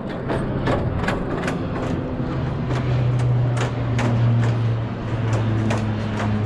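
Bicycle tyres rolling over a plank bridge deck, knocking on the joints between the boards in a regular clatter of about two to three knocks a second, with a steady low hum underneath.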